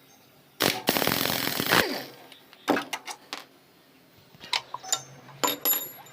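Motorcycle repair work with metal tools and parts: a loud burst of rapid rattling lasting about a second, then a series of sharp metallic clicks and knocks, with a short high metal clink near the end.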